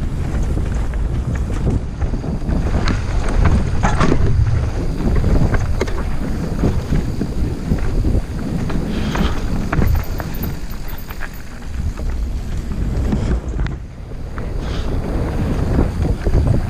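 Wind rushing over the microphone during a fast trail descent, with the bike rattling and knocking over roots and rocks and tyres rolling on rough dirt.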